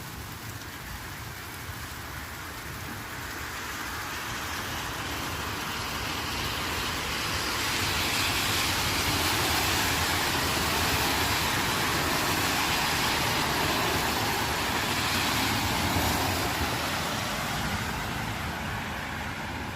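Tyre hiss of road traffic on a wet road, swelling for several seconds to a peak in the middle and fading again near the end, over light easing rain.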